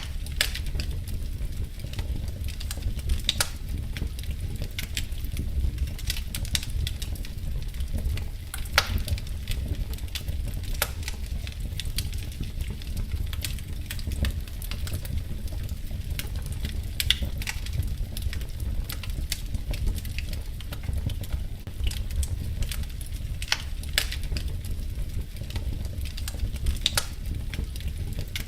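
Wood fire crackling in a fireplace: irregular sharp pops and snaps, a few a second, over a steady low rumble of the burning fire.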